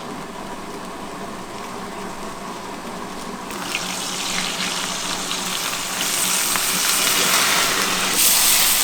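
Churro dough deep-frying in hot oil, a steady crackling sizzle that grows louder about three and a half seconds in.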